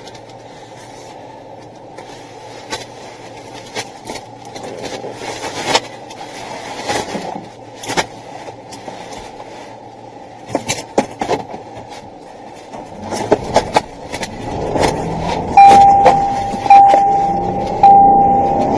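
Car interior with scattered clicks, knocks and rattles; about thirteen seconds in the engine speeds up as the car pulls away. Near the end a loud steady beep tone starts repeating about once a second.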